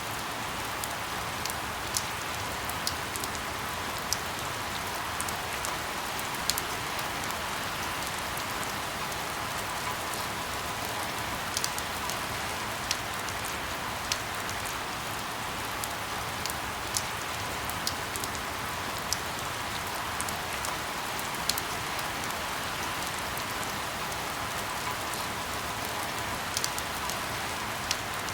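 Steady rain falling, an even hiss with scattered sharp drips and ticks of individual drops landing on a hard surface.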